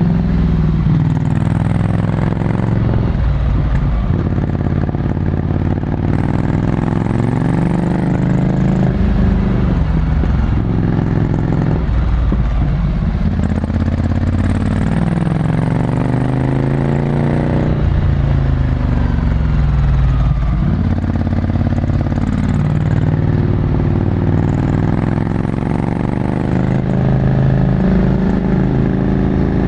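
Ducati Scrambler Desert Sled's L-twin engine through a full Termignoni exhaust, heard onboard while riding. The revs climb and drop over and over with throttle and gear changes.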